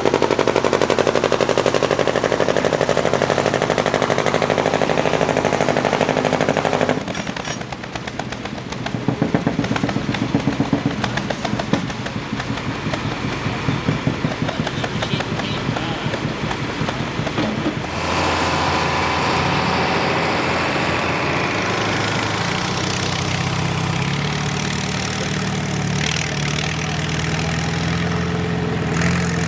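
Pulling tractor's engine running hard under load, then backing off about seven seconds in to a rough, rapid popping exhaust at low revs. About eighteen seconds in, a steady, even engine idle takes over.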